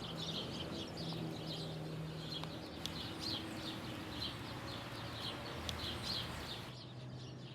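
Birds chirping, with many short high chirps a few times a second over a faint steady low hum; the chirping drops away near the end.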